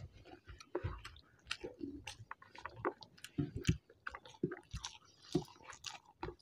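Close-up eating sounds of two people having rice and mustard-steamed hilsa by hand: chewing and wet mouth smacks in many short, irregular clicks, with soft squishes of fingers mixing the rice.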